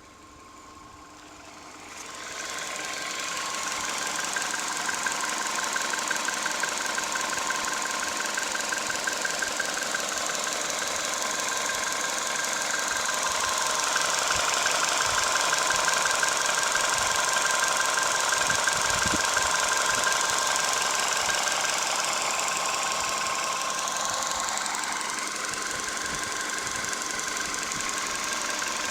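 Skoda Roomster's CFNA 1.6-litre four-cylinder petrol engine running with a persistent rapid knock. It gets louder about two seconds in and then runs steadily.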